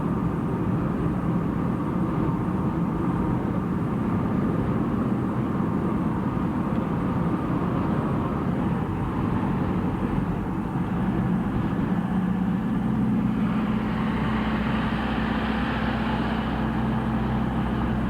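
Engine and road noise heard inside a moving vehicle's cabin: a steady, continuous drone. About twelve seconds in, a low steady hum comes in as the engine note changes.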